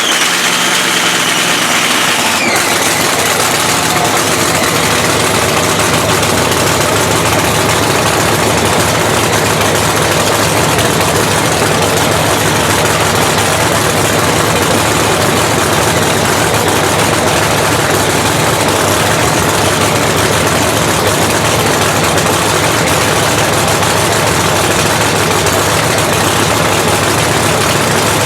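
Supercharged Hemi drag-racing engine running at a steady idle just after start-up. One cylinder, number two, has a cold plug that has not cleared out.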